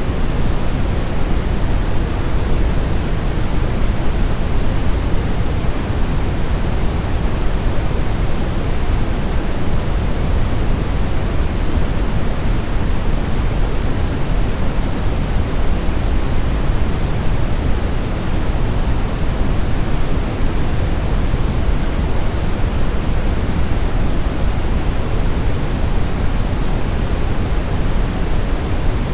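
Synthetic brown noise: a steady, unbroken hiss weighted toward the low end, with a deep rumbling character and no changes or events.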